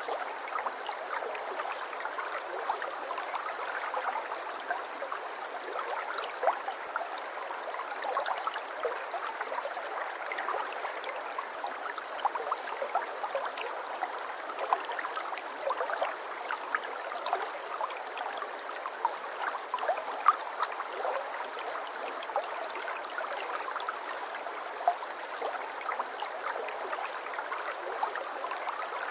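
A shallow brook babbling over stones: steady running water with frequent small splashes and gurgles.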